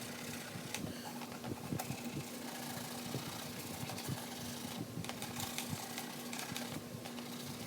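Cloth rubbing over a plastic light cover while it is polished with spray plastic cleaner: an irregular scratchy scrubbing with no clear rhythm. A steady low hum runs under it.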